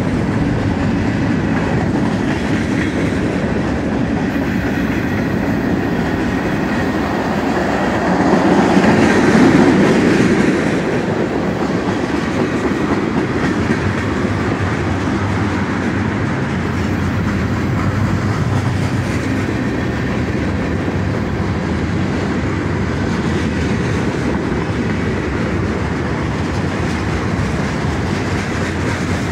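Cars of a CSX mixed freight train rolling steadily past close by, a continuous rumble of wheels on the rails, louder for a few seconds about eight seconds in.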